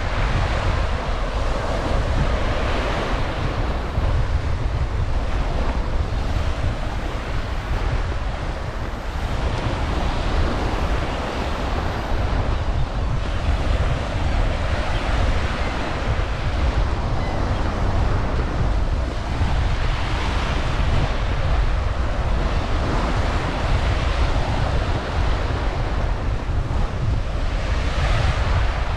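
Ocean surf breaking and washing up the beach, swelling and ebbing every few seconds, with wind buffeting the microphone in a steady low rumble.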